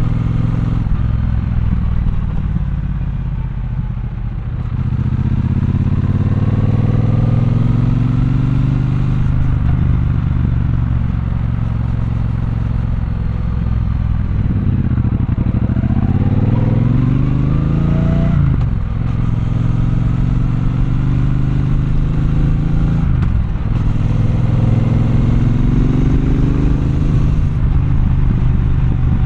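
Triumph Bonneville Bobber's 1200 cc parallel-twin engine pulling through the gears: the pitch rises several times and drops sharply at each shift, after easing off and slowing in the first few seconds.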